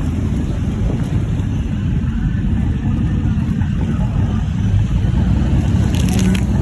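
Steady low rumble of truck engines, loud and unbroken, with a few brief clicks near the end.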